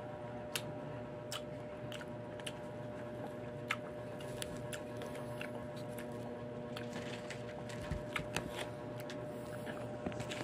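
A person biting and chewing a young unripe green mango close to the microphone: irregular sharp crunches and mouth clicks, over a faint steady hum.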